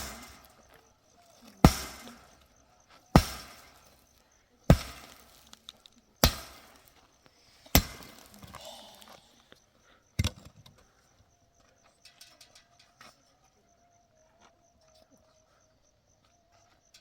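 About seven sharp, heavy blows struck at a steady pace, roughly one every second and a half, each ringing out briefly; after about ten seconds they stop, leaving only faint small sounds and a faint steady tone.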